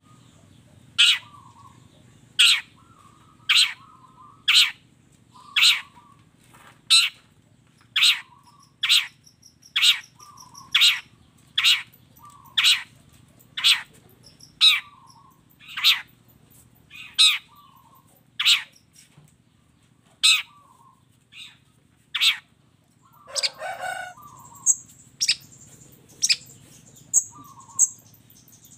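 Long-tailed shrike calling: a sharp, harsh call repeated about once a second. Near the end a higher, thinner twittering joins in.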